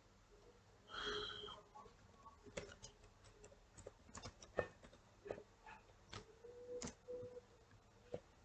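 Faint, irregular single clicks of computer keyboard keys being pressed, with a short breathy hiss about a second in.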